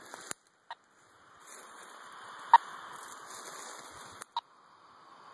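Radio-telemetry receiver hissing with static, with short sharp beeps about every two seconds: the pulses of a snake's radio transmitter picked up at strong signal.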